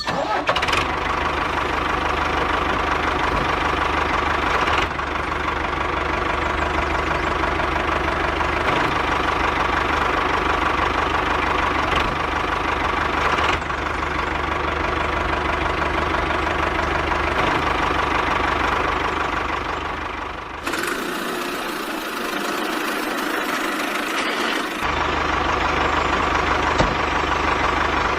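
Diesel engine of a JCB 3DX backhoe loader running with a steady knocking clatter. The sound changes abruptly several times, and for a few seconds about two-thirds of the way in the deep rumble drops away.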